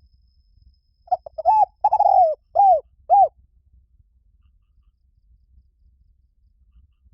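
Spotted dove cooing: one phrase of about five coos about a second in, the middle note drawn out longer than the rest.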